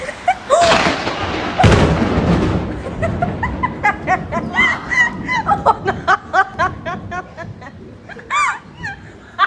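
Two loud noisy bursts near the start, then laughter in many short, rising-and-falling bursts.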